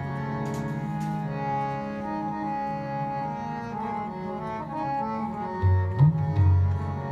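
Kirtan accompaniment of harmonium and tabla: the harmonium holds sustained reedy notes and chords, and near the end the tabla's bass drum comes in with a few deep strokes, one bending upward in pitch.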